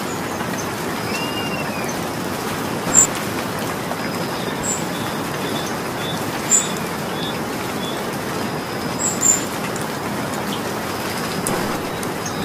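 Steady rain falling, a dense even hiss. A few sharp louder ticks come about three, six and a half and nine seconds in, and a bird chirps faintly near the start.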